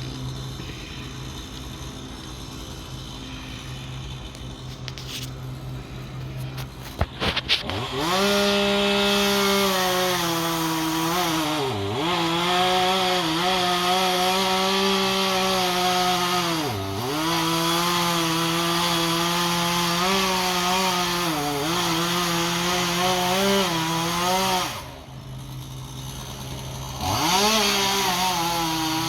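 Chainsaw idling, then revved up about eight seconds in and cutting into the tree's wood, its engine note sagging several times as the chain bites under load. It drops back to idle for a moment and then revs up again near the end.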